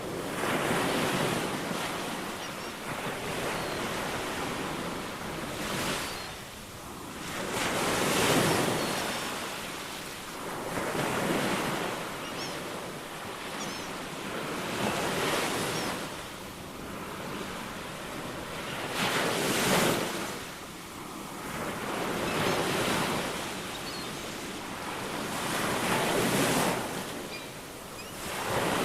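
Ocean waves surging and breaking every few seconds, each swell rising and falling away in a wash of surf.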